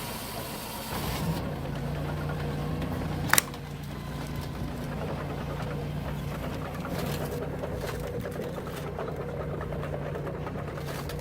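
Japa 435 firewood processor running with a steady mechanical hum. One sharp, brief crack about three seconds in is the loudest sound.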